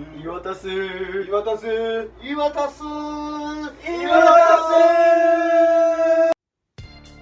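A male voice singing or chanting a short melodic intro, ending on a long held note that cuts off suddenly near the end.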